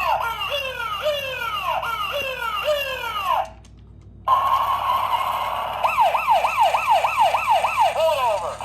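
Electronic toy police siren sound effect from a Road Rippers police motorcycle. A falling chirp repeats about twice a second, then cuts out a little over three seconds in. It comes back as a steady tone that switches to a faster up-and-down yelp, about three a second.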